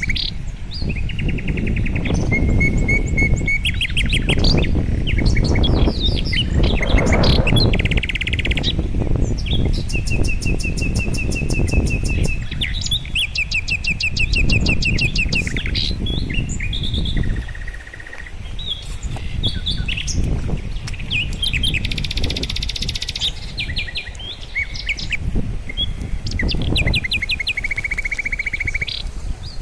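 Songbirds chirping and trilling in many quick runs of repeated high notes, over a low rushing noise.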